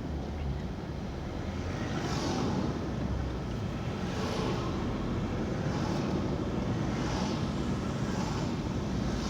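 A car on the move, heard from inside the cabin: steady engine and road rumble, with a brief swell of hiss every one to two seconds.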